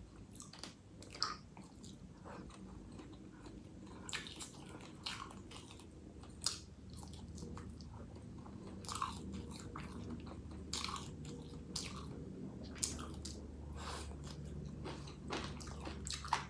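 Close-up chewing and biting of an imitation crab stick, which is stiff from long storage: soft, irregular mouth clicks and wet chewing, a few sharper bites standing out.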